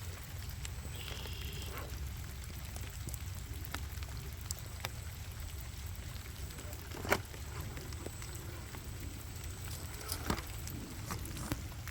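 Rc4wd Gelande 2 scale crawler working slowly over wet rock: scattered small clicks and knocks, the sharpest about seven seconds in, with a brief high whine about a second in over a steady low rumble.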